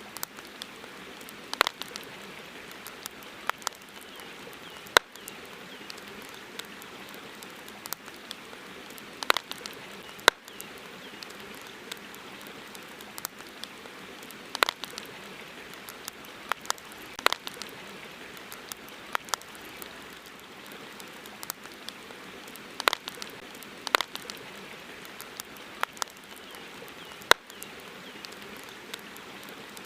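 Campfire crackling, with irregular sharp pops and snaps over a steady background hiss.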